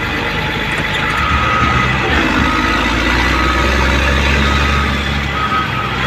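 Heavy diesel earthmoving machine running under load, its engine rumble rising about a second in, with a reversing alarm beeping repeatedly.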